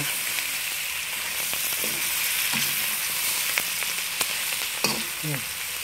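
Lamb flaps and onion sizzling steadily in a wok on high heat. A metal slotted spoon stirring them clicks and scrapes against the wok now and then.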